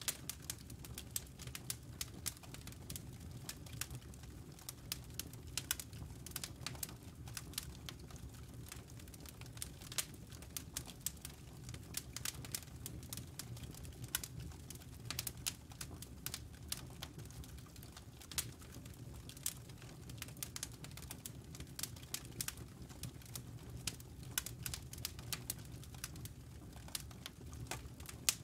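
Wood fire burning in a fireplace: dense, irregular crackles and pops of burning logs over a steady low rumble.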